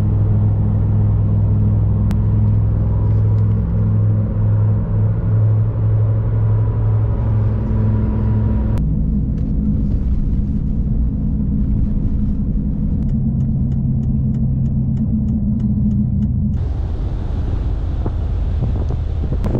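Motor vehicle engine and road noise while driving: a steady low drone whose pitch steps to a new level a couple of times. There is a faint regular clicking, about two a second, in the middle part, and near the end the sound changes suddenly to a rushing noise.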